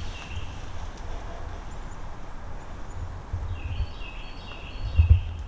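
A bird calling outdoors: a quick run of short, stepped notes about three seconds in, over a steady low rumble with a few heavier bumps, the loudest about five seconds in.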